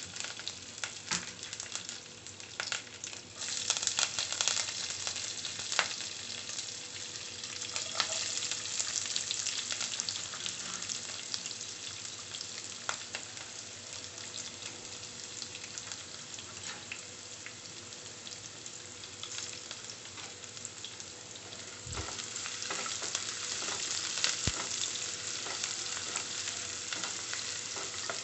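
Spices, chillies and chopped onions frying in hot oil in a nonstick pan, a steady sizzle with scattered sharp pops in the first few seconds. The sizzle grows louder about three quarters of the way through as the onions are stirred with a wooden spatula.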